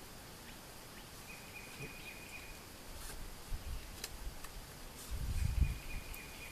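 Light clicks and knocks of wooden sticks being laid on a stick trap, with muffled low thumps of handling, loudest about five seconds in. A faint high, steady trill sounds twice in the background.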